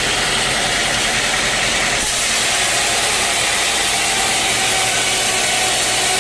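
Sawmill machinery running steadily, an engine hum under a loud hiss. About two seconds in, the sound shifts and the high hiss grows louder.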